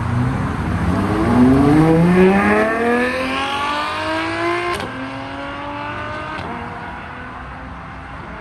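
Supercar engine accelerating hard as it pulls away, its pitch climbing steadily, loudest around two seconds in. A little before five seconds in it shifts up with a sharp break, and the lower note fades as the car drives off.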